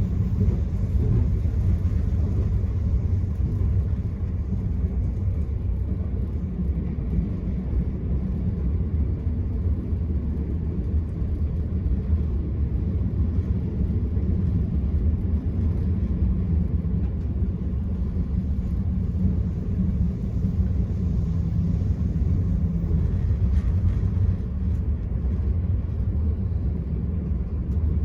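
Steady low rumble of an Enterprise passenger train running along the line, heard from inside the coach: wheels and running gear on the rails.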